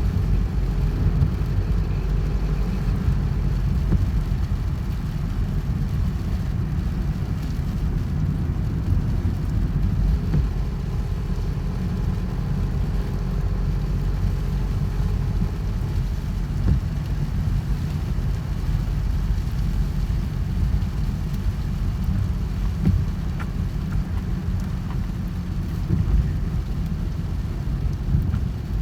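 Steady rain, a faint even hiss, over a heavy, unbroken low rumble.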